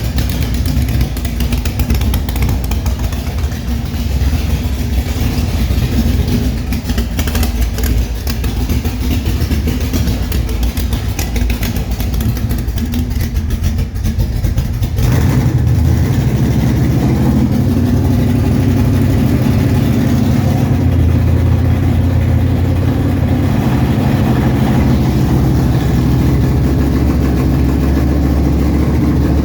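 454 big-block V8 in a 1964 Chevrolet Bel Air running at idle. About halfway through the sound shifts to a steadier, deeper, slightly louder note. The owner says the engine is running a little out of time.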